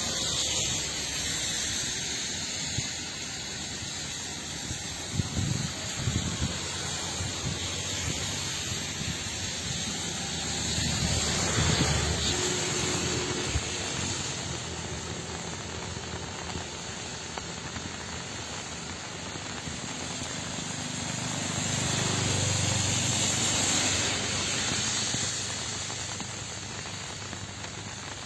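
Rain falling steadily, a continuous hiss that swells louder about twelve seconds in and again past twenty seconds.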